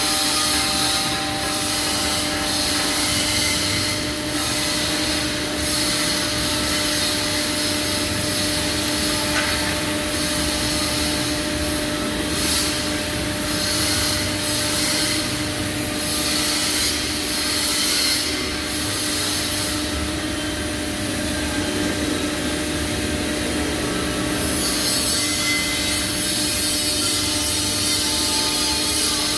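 Pipe welding arc running steadily with a constant electrical hum underneath.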